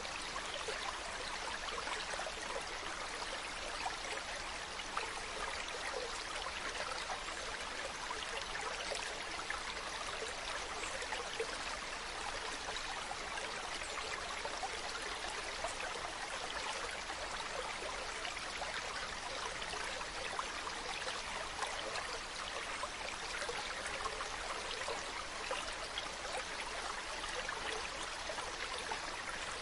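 Steady running water, even and unbroken throughout.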